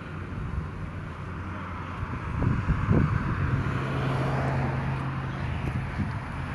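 Roadside traffic: a vehicle engine drones at a steady low pitch from about halfway, with road and tyre noise building toward the end.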